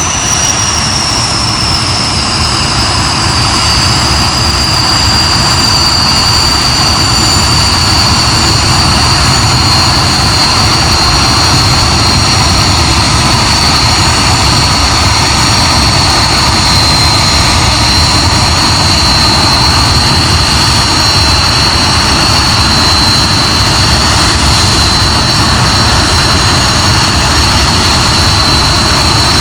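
Hawker Hunter's jet engine running on the ground: a loud, steady roar under a high whine that falls in pitch over the first few seconds, then holds level.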